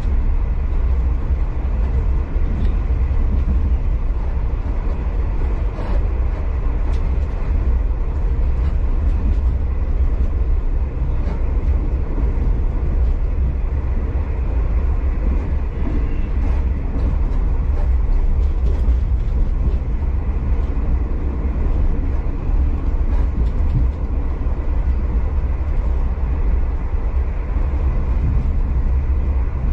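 Moving V/Line passenger train heard from inside the carriage: a steady low rumble of the wheels on the rails, with occasional faint clicks and rattles.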